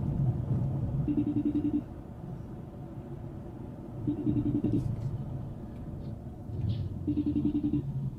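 Low rumble of a car on the move, with a short, rapidly pulsing electronic tone sounding three times, about three seconds apart.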